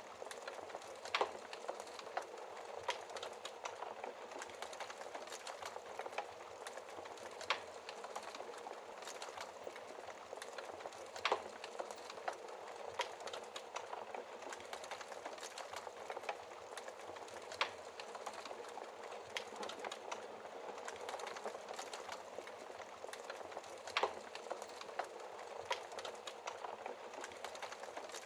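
Wood fire burning in a fireplace: a steady hiss with irregular crackles and a few sharper pops from the logs.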